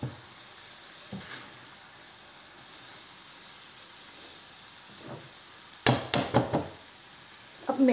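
Dry urad dal sizzling quietly as it fries in an open wok, a low steady hiss. A spoon stirs it and knocks against the metal pan in a quick run of clatters about six seconds in, with a single light knock near the start.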